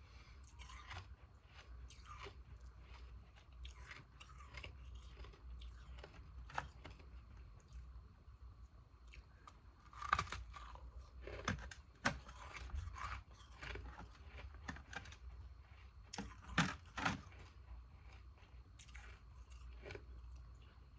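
Frozen ice pieces being bitten and chewed close to the microphone: irregular crunches and crackles. The loudest bites come about halfway through and again about two-thirds of the way through.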